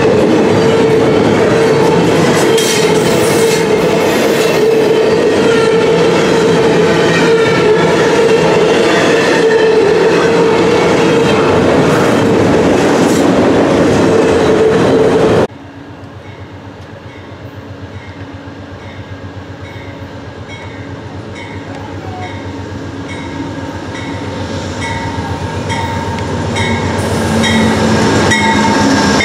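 A double-stack intermodal freight train rolls past close by: a loud, steady rumble of wheels on rail with a steady hum. About halfway through it cuts to a quieter scene, where a bell rings about twice a second as an Amtrak GE P42DC passenger locomotive approaches, its sound growing louder toward the end.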